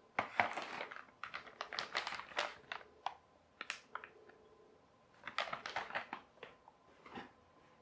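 A toy's boxed packaging being handled: irregular clicks, taps and crinkles of cardboard and plastic, with a lull of about a second in the middle.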